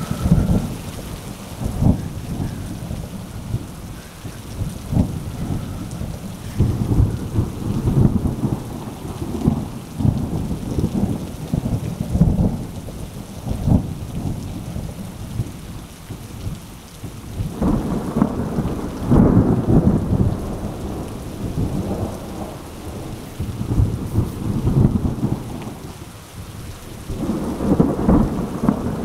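Thunderstorm: rain falling steadily while thunder rumbles again and again, with the heaviest rumbles about two-thirds of the way through and again near the end.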